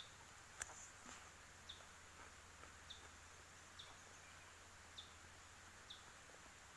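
Near silence in the open, with a small bird repeating a short, high, falling chirp about once a second, five times. There is a single sharp click less than a second in.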